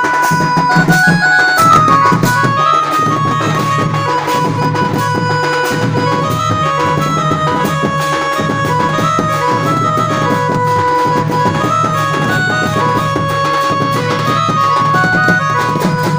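Loud Indian band music: a melody line of short stepping notes over steady drumming.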